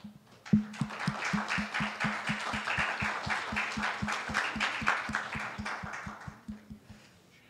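Congregation applauding, with a steady run of claps at about four a second that stands out over the general clapping and dies away near the end.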